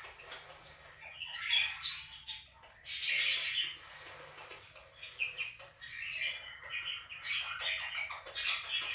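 Quaker (monk) parakeets squawking and chattering over the chirping of a budgerigar flock. There are loud outbursts about one and a half and three seconds in, then steady busy chatter.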